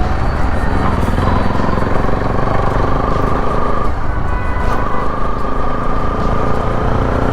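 Bajaj Pulsar NS200 single-cylinder engine with an aftermarket Akrapovic full-system exhaust, pulling under way with wind rumble on the microphone. The engine note climbs, breaks at a gear change about four seconds in, then climbs again.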